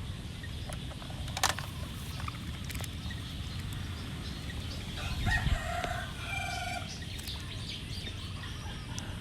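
A chicken calling once, a little over halfway through, over a steady low background rumble, with a single sharp click about a second and a half in.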